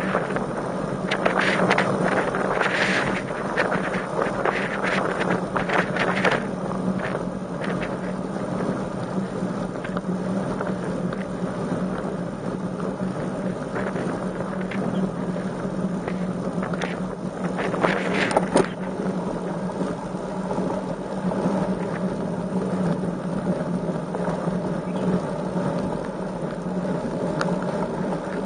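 Wind buffeting the microphone of a camera riding along on a road bike, over a steady low hum, with bursts of crackle a second in and again past the middle.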